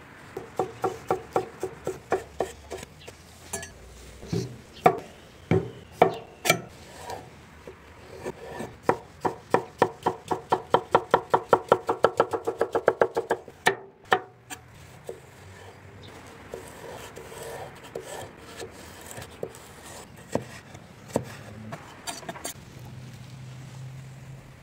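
Knife chopping vegetables on a cutting board in runs of quick strokes. The fastest and steadiest run comes near the middle, at about five or six strokes a second, with sparser cuts after it.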